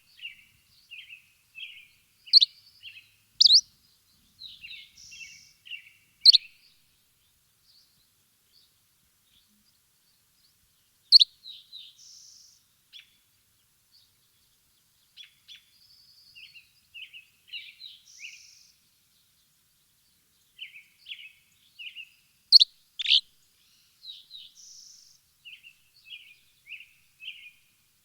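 Small birds chirping: clusters of short high chirps and twitters, broken by a few louder, sharp downward-sweeping notes and by pauses of a few seconds.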